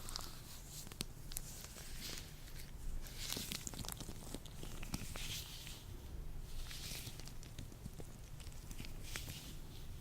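Hands in latex gloves rubbing and handling close to the microphone: soft rubbery swishing dotted with many small clicks and snaps, with several louder swells of rubbing.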